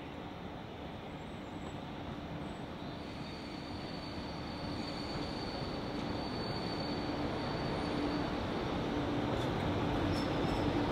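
Railway train on the move, growing steadily louder as it comes closer, with a thin high wheel squeal that comes and goes.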